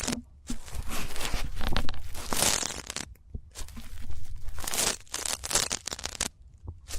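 Ear-cleaning ASMR sounds: scratching, crackly rubbing strokes close to the microphone, in several passes of a second or so with short pauses between them.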